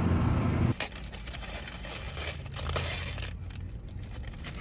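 A steady low rumble cuts off abruptly under a second in, then a food wrapper crinkles and rustles with many small crackles as it is handled and opened.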